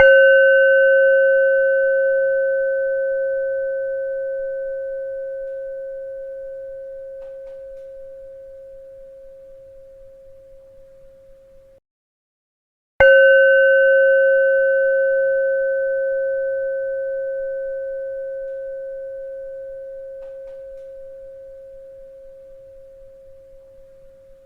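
A bell struck twice, about thirteen seconds apart. Each strike rings with one strong low tone and a few fainter, higher overtones that die away quickly, the main tone fading slowly for about twelve seconds before it cuts off abruptly.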